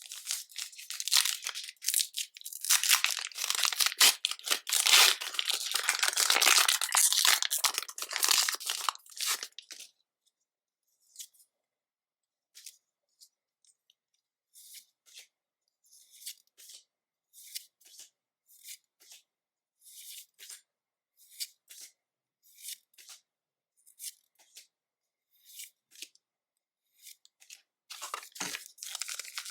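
A foil Pokémon booster pack wrapper tearing and crinkling for about the first ten seconds. Then a run of short, soft, evenly spaced slides or taps, about one a second, as cards are flipped through one at a time. Crinkling starts again near the end.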